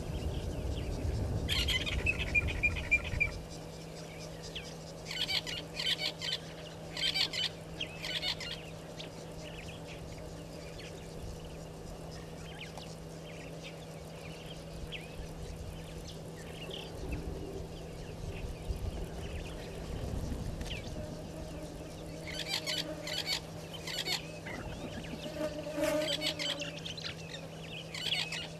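Wild birds calling in groups of quick, repeated cackling notes, about five seconds in and again near twenty-two seconds, over a steady low hum. A low rumble sounds for the first three seconds or so.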